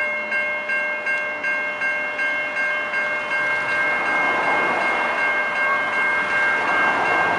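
Level crossing electronic bells (Type 3 E-bells) starting up suddenly and ringing a steady, rapid ding about three times a second, the warning that the crossing has activated for an approaching train. A rising rush of noise builds under the bells from about halfway through.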